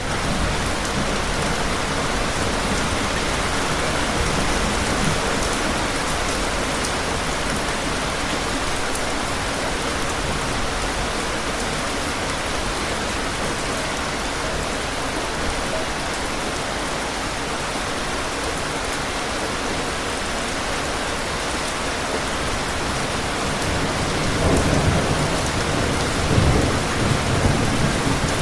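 Steady heavy rain falling, an even hiss of drops. Low rumbles of thunder swell in near the end.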